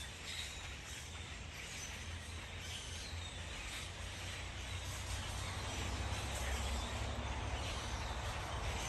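Outdoor background noise: a steady low rumble under an even hiss, with a few faint short high sounds in the first few seconds.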